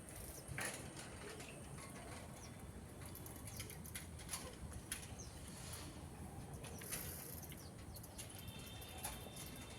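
Faint outdoor background with scattered light ticks and a few brief, high bird chirps.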